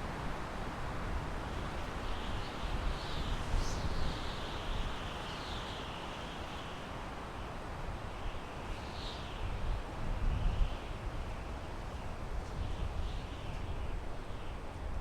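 Wind blowing through pine trees, a steady rushing with a low rumble that swells and eases in gusts. A bird calls several times with short high chirps.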